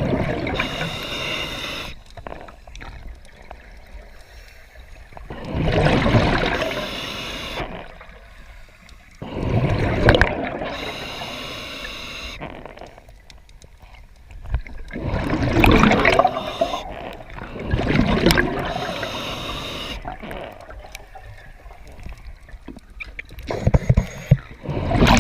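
Water gurgling and splashing in repeated surges, six of them, each lasting a second or two and coming every four to six seconds.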